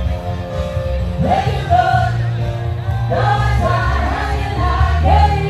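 Live band music with several voices singing together over a strong, steady bass line.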